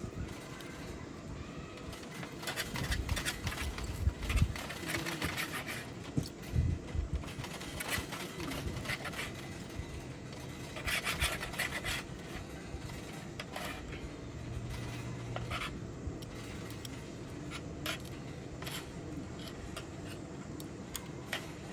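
Scraping and rubbing in irregular bursts, with scattered sharp clicks, while meat cooks on a campfire grill.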